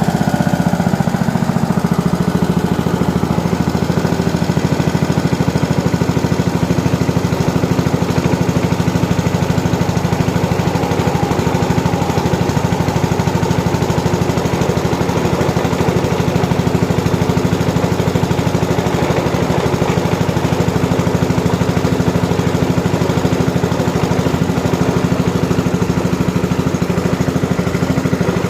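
Small engine running steadily at a constant speed, powering the hydraulic press as it pushes down on the tire bead.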